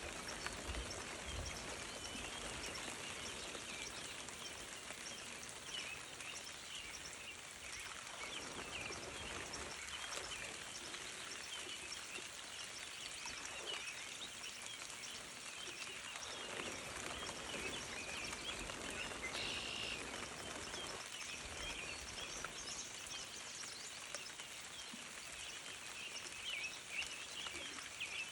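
Outdoor ambience: a steady hiss with many faint, irregular high ticks or chirps.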